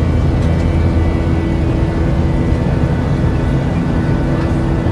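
Steady aircraft engine noise: a loud, unbroken drone with a few constant tones in it.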